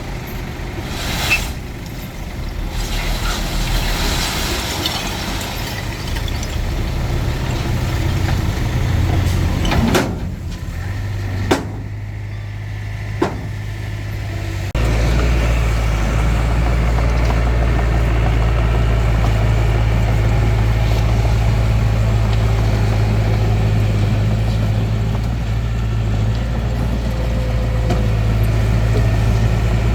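Bulldozer's diesel engine running steadily, with a few sharp clanks in the first half. About halfway through, the engine's low rumble abruptly gets louder and holds there.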